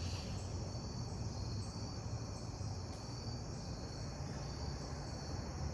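Crickets chirping steadily in a high, evenly pulsing drone, over a low steady hum.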